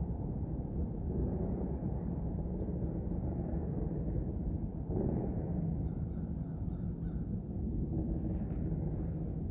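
A bird calls a quick run of about five short, high notes a little past halfway, over a steady low rumble.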